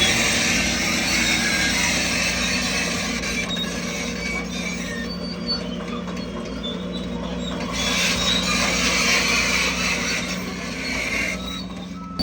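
Crawler bulldozer's diesel engine running steadily, with a high-pitched metallic squealing from the undercarriage that swells and fades twice.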